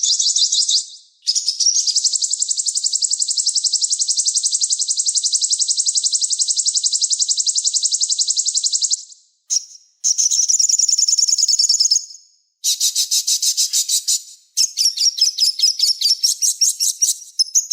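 Small songbirds singing very fast, high-pitched trills: one long unbroken trill of about seven seconds, then shorter chattering trill phrases broken by brief pauses.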